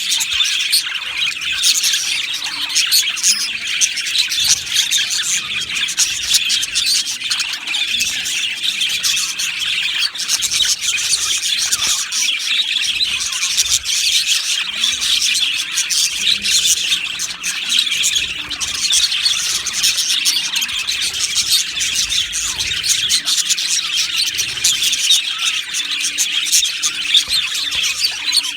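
A colony of budgerigars chirping and warbling together, many birds at once in a dense, unbroken chatter with occasional squawks.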